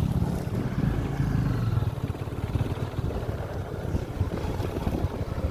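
Motorcycle underway, its low engine rumble mixed with wind buffeting the microphone.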